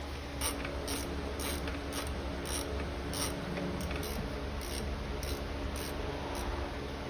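Hand ratchet wrench being worked in short, quick strokes, about two a second, each stroke a brief rasp of pawl clicks, as bolts are turned on a 1994 Ford F150 engine.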